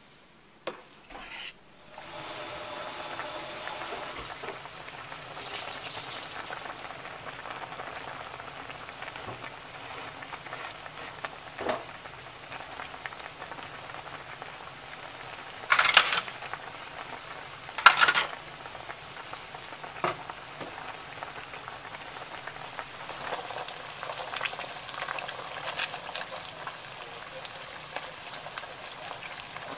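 Stuffed beancurd pieces frying in shallow oil in a pan: a steady sizzle that starts about two seconds in and grows denser near the end. Two sharp knocks sound midway.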